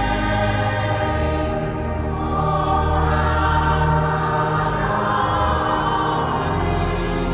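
Choir singing a sacred piece in slow, sustained chords, with low notes held beneath.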